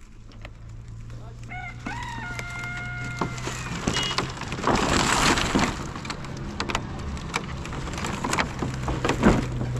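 A rooster crowing once, a few short rising notes and then one long held note, starting about a second and a half in. Around the middle a louder burst of noise covers it, with scattered clicks and knocks and a steady low hum underneath.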